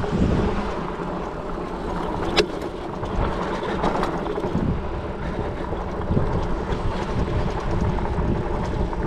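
Dirt bike engines running on a motocross track during a kids' race, a steady mechanical drone, with one sharp click about two and a half seconds in.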